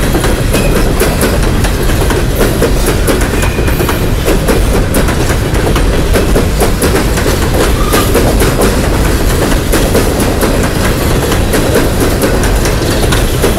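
Empty steel coal hopper cars of a long freight train rolling past, a steady loud rumble with the wheels clicking and clattering over the rail joints.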